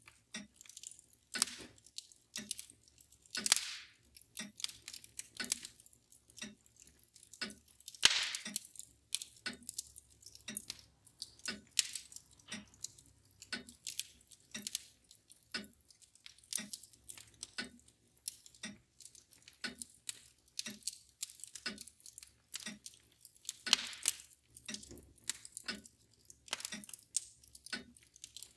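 Wood fire crackling with irregular sharp pops, a few of them louder, over the steady ticking of a mantel clock.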